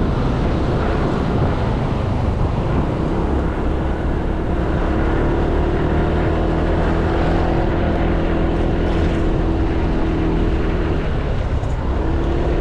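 Honda Click 160 scooter's single-cylinder engine running steadily while riding, with road noise and wind on the microphone. A steady engine tone holds through the middle, dips briefly near the end, then comes back.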